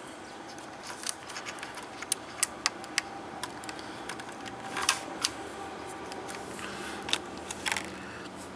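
Scattered small clicks and taps of hands handling the opened monitor's cable connectors and board parts, plastic and metal knocking lightly.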